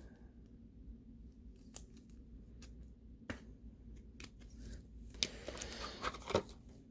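Faint, scattered clicks and light rustling of trading cards and their plastic packaging being handled, getting busier toward the end.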